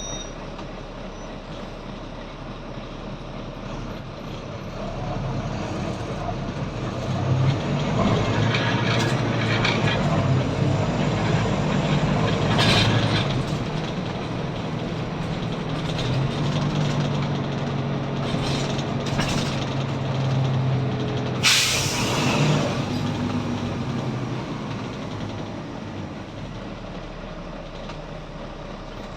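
Volvo B9TL double-decker bus's straight-six diesel engine pulling away and running under load, heard from on board, its pitch stepping as it goes up through the gears. Short hisses of air come from the brakes several times, the loudest about three-quarters of the way through.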